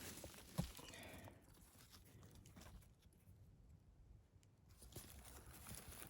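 Faint rustling and crunching of forest-floor litter, with one soft knock about half a second in; otherwise near silence.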